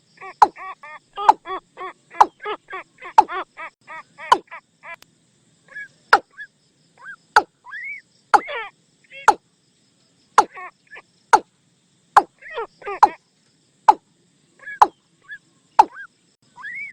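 Watercock decoy call: quick runs of short, hollow, bending call notes, cut through by sharp loud clicks about once a second.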